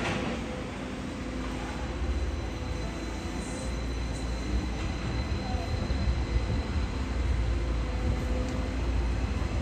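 Rail vehicle running on its track: a steady low rumble with faint, steady tones above it.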